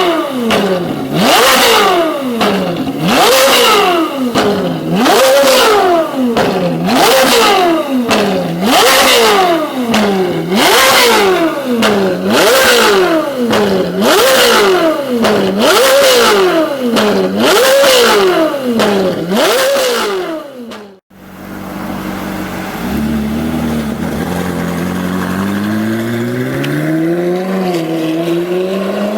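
Ferrari 458 Italia's flat-plane-crank V8 through a Fi Exhaust valvetronic catback with catless downpipes, valves open, blipped in about ten quick free revs, one every two seconds or so, each a sharp rise and fall in pitch. After a sudden cut about two-thirds through, the car accelerates and the engine note climbs steadily, dipping briefly once near the end before rising again.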